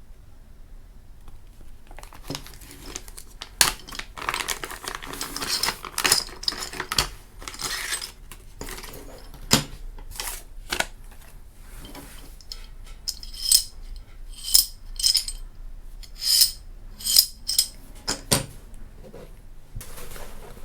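Small metal camera mount brackets and parts being handled: rustling and scattered clicks, then several short metallic clinks in the second half.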